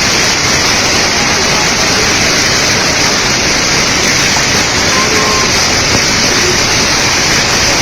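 Heavy hailstorm: hail and rain coming down hard as a loud, dense, steady noise.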